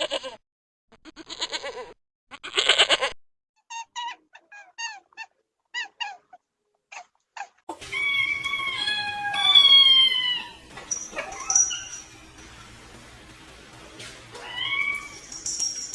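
A goat bleating a few times, then a run of short, squeaky animal cries, then, from about halfway through, longer high-pitched cries that fall in pitch, against a background hiss.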